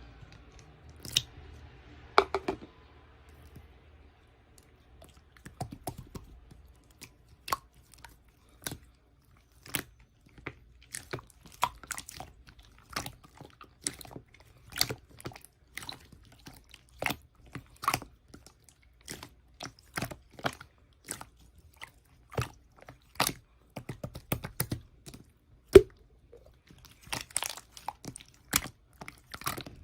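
Slime being squeezed and pressed by hand, giving sharp, crisp clicks and pops at an irregular pace of about one or two a second.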